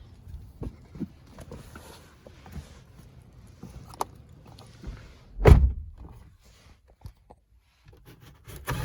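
A car door on a 2022 Toyota Highlander thunks shut once about five and a half seconds in, amid footsteps and small handling clicks and knocks.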